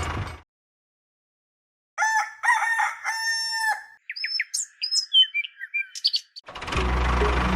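A rooster crows once, about two seconds long, starting about two seconds in after a silence. Small birds chirp and whistle for about two seconds after it.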